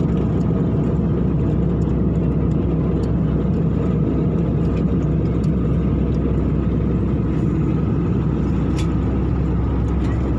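Steady jet airliner cabin noise: the constant low roar of the engines and rushing air heard from inside the passenger cabin, with a faint steady whine in it.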